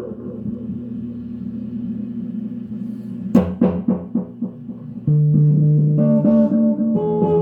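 Electric guitar played through an early Ecco-Fonic all-tube tape echo. A sharply plucked note about three seconds in is followed by evenly spaced repeats, about four a second, that fade away, and then new notes ring out under the echo.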